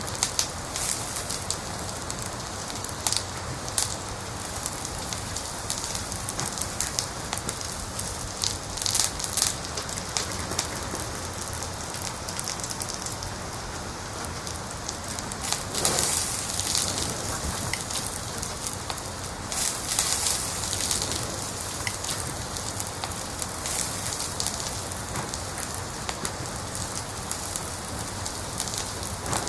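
Wood fire crackling in a fireplace: a steady hiss with frequent sharp pops and snaps, and several louder bursts of crackling along the way.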